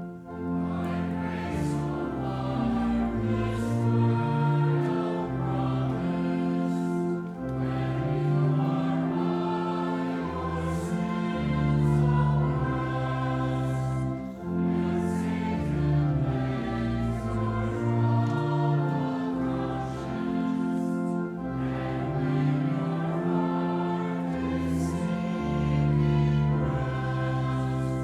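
Choir or congregation singing a hymn in harmony, in phrases of about seven seconds with short breaths between them.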